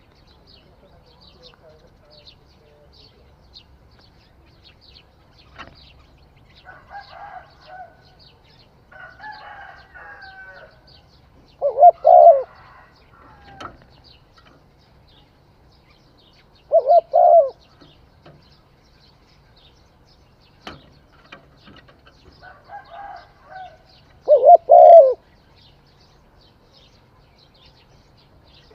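Spotted dove cooing: loud calls of a few quick notes about 12, 17 and 24 seconds in, with softer coos between them. Faint high chirping runs underneath.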